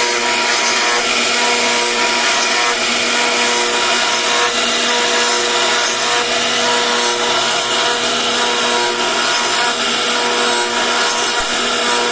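CNC router spindle running with a steady whine while the bit carves wood, with a continuous cutting noise.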